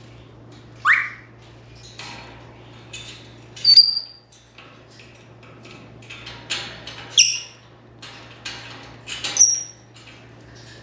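African grey parrot giving short whistles and chirps: a rising whistle about a second in, then several brief high whistles spread through the rest, with soft clicks and rustles between them.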